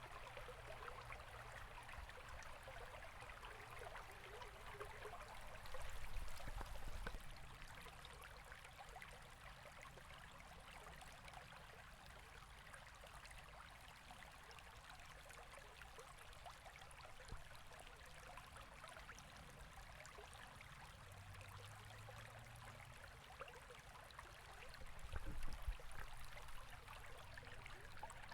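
A river babbling steadily over stones, a faint, even rush of running water. Brief low rumbles come twice, about six seconds in and again near the end.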